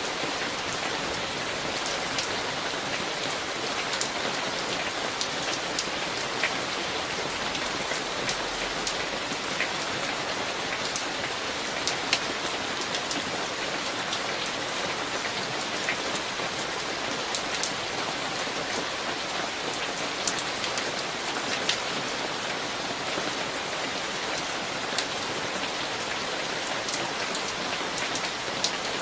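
Steady summer-thunderstorm rain, an even wash of falling rain with many sharp drop ticks scattered through it.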